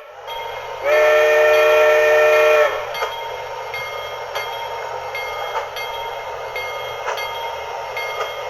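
HO scale model locomotive's sound unit blowing a multi-tone whistle for about two seconds, then a steady running sound with a regular beat as the train moves off.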